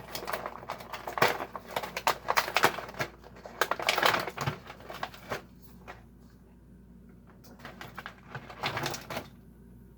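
Plastic packaging of a toy car 5-pack being handled, with dense crinkling and clicking for about five seconds, then a few scattered clicks.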